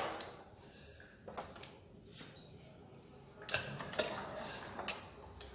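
Faint scattered metallic clicks and knocks as air is bled from a single-cylinder diesel engine's injector fuel line, with a small cluster of them a little past halfway.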